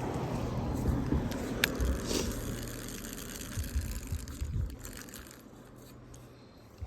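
A car driving past on the road. Its tyre and engine noise is loudest in the first couple of seconds, then fades away, with a few light clicks.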